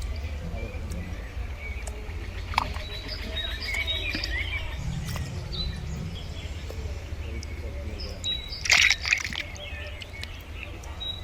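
Birds chirping over a steady low rumble, with a louder short noisy burst near the end.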